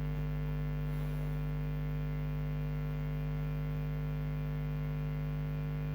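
Steady electrical hum, a stack of several fixed tones that does not change.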